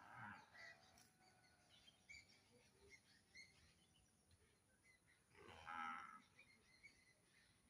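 A farm animal gives a single moo-like call lasting about a second, starting about five and a half seconds in, with faint scattered chirps before it.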